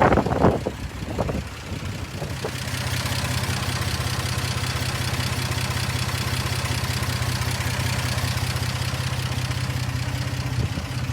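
1950 Chevrolet Fleetline's 216 cubic-inch inline-six engine idling steadily. It comes in about two seconds in, after a few brief knocks and words.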